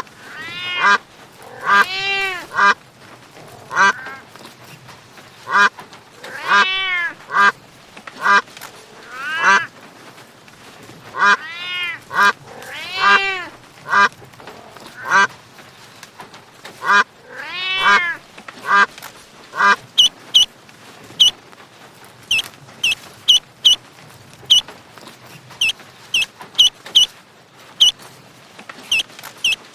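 Waterfowl calling: repeated honking, quacking calls, each rising and falling in pitch, for the first two-thirds. From about twenty seconds in, rapid high-pitched peeping takes over.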